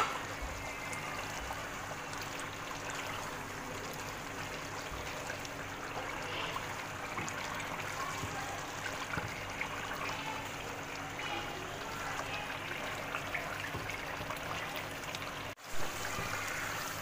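Oily chicken curry gravy bubbling and sizzling in a pot as the masala is fried down with its oil separated, with a spatula stirring through it partway.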